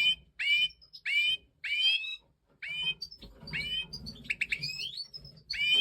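Stieglitz Major goldfinch (the large eastern race of the European goldfinch) calling: a series of short, rising calls about two a second, with a quick run of several calls a little past the middle.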